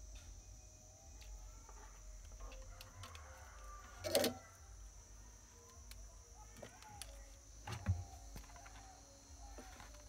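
Two sharp knocks from parts being handled on a workbench, the first about four seconds in and a duller one near the end, over a low steady hum with faint chirps in the background.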